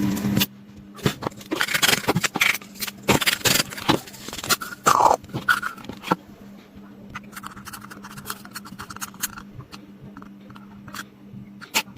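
Clicks and scraping of small hard parts being handled and worked on, as in taking apart an LED lamp. The clicks are dense for about the first five seconds, then sparse. A steady hum stops abruptly about half a second in.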